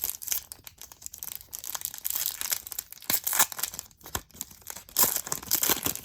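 A Topps baseball card pack's wrapper being torn open and crinkled by hand: dense, crackly rustling, loudest about three seconds in and again near five seconds.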